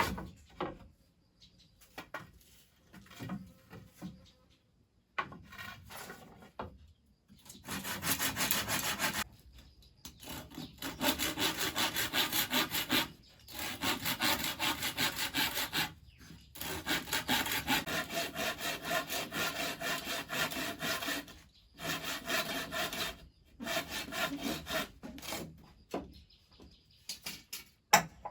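Hand saw cutting through wood in quick, rhythmic strokes, in several runs broken by short pauses; the first few seconds hold only scattered light scrapes and knocks.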